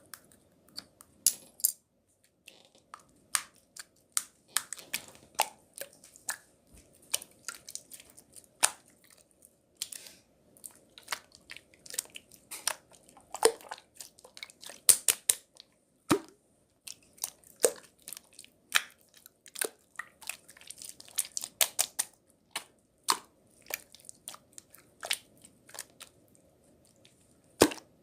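Irregular crisp crunching and crackling, a quick run of sharp snaps at uneven intervals, over a faint steady hum.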